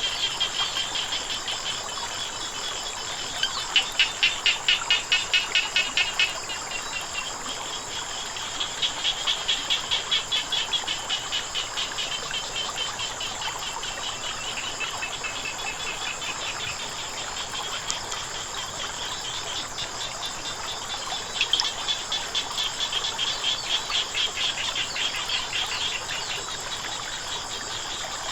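Frogs calling in trains of rapid, evenly spaced croaks, in bouts of a few seconds each, over a steady high drone of insects.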